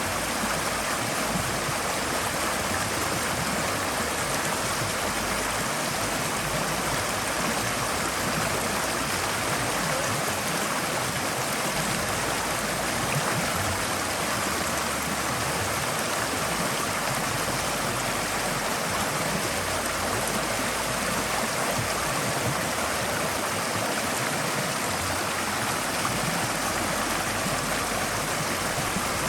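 Forest stream flowing steadily, its water rushing and burbling over rocks in an even, unbroken wash of sound.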